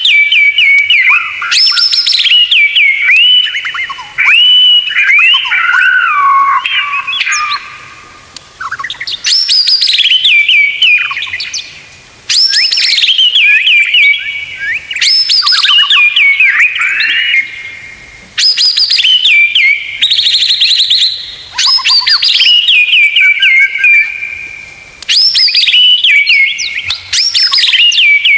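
White-rumped shama (murai batu) song, loud and continuous: whistled phrases of rapid, steeply falling notes, each ending in a held whistle. The phrases follow one another every few seconds with short breaks between them.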